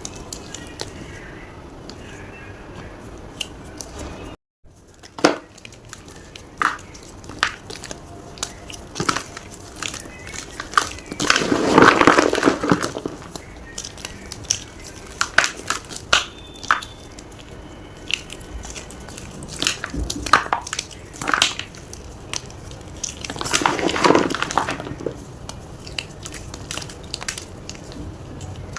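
Block of gym chalk being crunched, with scattered sharp crackles and two longer spells of dense crunching, a little under halfway through and again near the end. A brief dropout about four seconds in.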